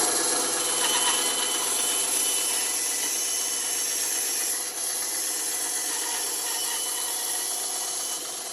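Electric woodworking power tool running steadily and working wood, with a hissing, rasping sound and a faint steady whine.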